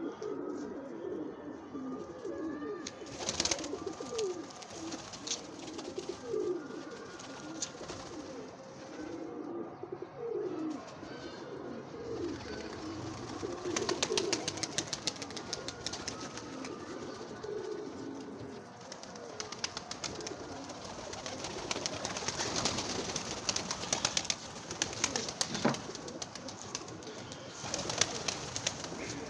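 Many domestic pigeons cooing together in a loft, overlapping low calls throughout, with scattered clicks and rustling of wings and feet, busier in the second half.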